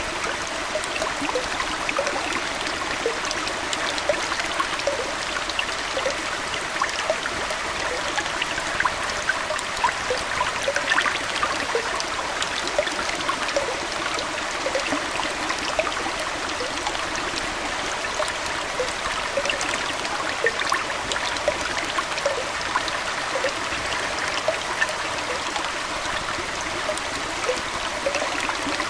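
Aquarium water trickling steadily, like a small indoor stream, with many small bubbling plops scattered throughout.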